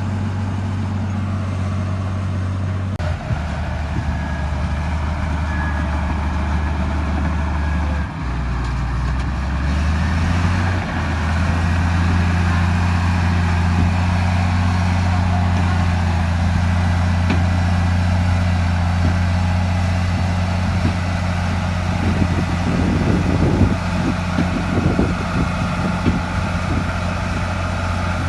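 Bulldozer's heavy diesel engine running under work. Its pitch shifts down and back up a few times in the first ten seconds, then holds steady, and from about two-thirds of the way through irregular clanks and knocks join in.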